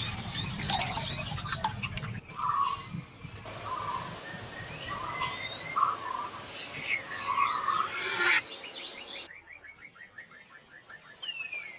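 Several different birds calling in turn: short chirps, then a run of low mellow notes, and near the end a fast, even trill and a single falling whistle.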